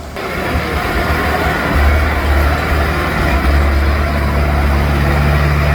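Tractor engine running under load. It grows louder just after the start and again about two seconds in, then holds steady.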